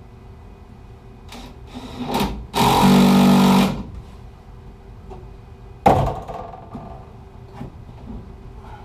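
A cordless drill/driver runs steadily for about a second, driving a fastener. A single sharp knock follows a few seconds later, with some handling noise around both.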